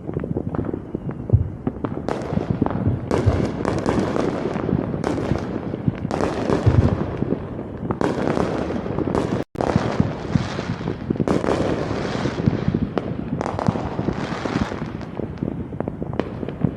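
Fireworks going off: a dense, continuous barrage of pops and crackles, with a split-second dropout a little past halfway.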